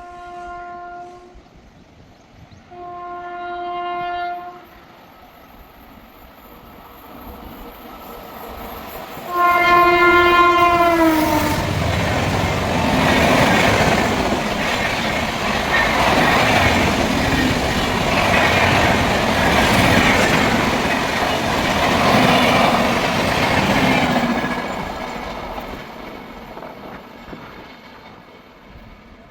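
An Indian Railways electric locomotive horn sounds three times, and the last blast drops in pitch as the locomotive passes close by. The express train then rushes past with its wheels clattering over rail joints, and the noise fades away near the end.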